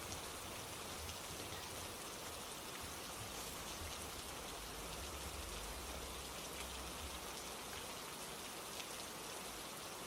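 Steady rain falling, with single drops ticking close by. A low rumble underneath fades out about three quarters of the way through.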